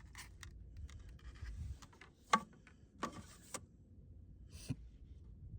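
Rustling and handling noise of someone moving about in a tight crawl space, with four sharp clicks or knocks in the second half.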